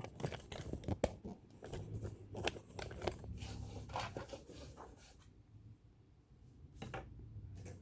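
Hands working on the metal parts of a vintage all-metal sewing machine: a quick run of small clicks and scraping for about five seconds, then two more clicks near the end.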